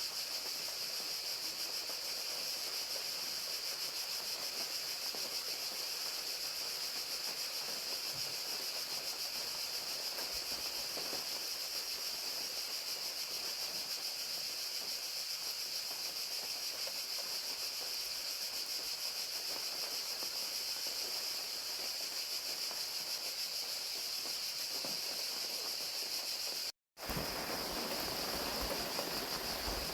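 Steady chorus of crickets chirping, with rain falling. Near the end it drops out to silence for a split second, then resumes.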